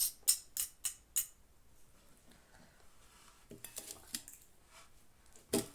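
A utensil clicking sharply against a dish, about six quick clicks in the first second or so, then a few fainter knocks and one more click near the end: instant noodles being mixed in a bowl.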